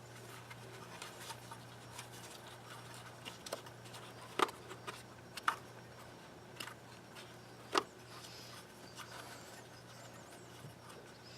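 Hands working a rubber boot back over a PCV valve on an engine: faint rubbing and scattered light ticks, with three sharper clicks about four and a half, five and a half and eight seconds in, over a steady low hum. The boot is a tight, awkward fit.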